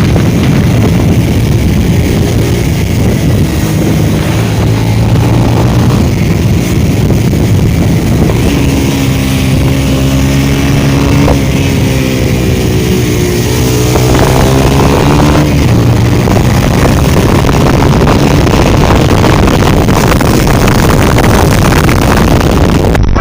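Motorcycle running at highway speed with heavy wind noise on the microphone; the engine note falls and then rises again around the middle.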